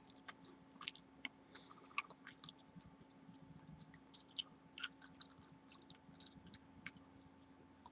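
Gum chewing close to the microphone: irregular soft wet smacks and clicks of the mouth, thickest around the middle.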